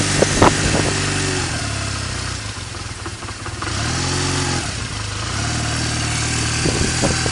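2000 Honda Rebel 250's air-cooled parallel-twin engine idling cold after a cold start. The idle sags and stumbles about three seconds in, then picks up with a brief rise in pitch and settles back into a steady idle.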